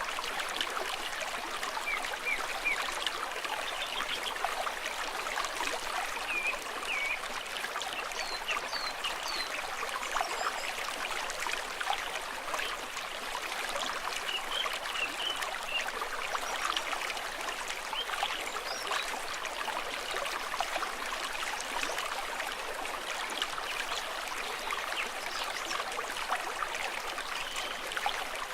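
Shallow stream running and trickling steadily over stones.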